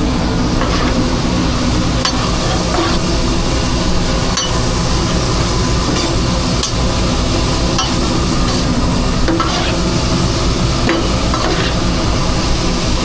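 Food truck kitchen prep: food frying on a grill over a steady mechanical hum, with occasional sharp clicks of utensils.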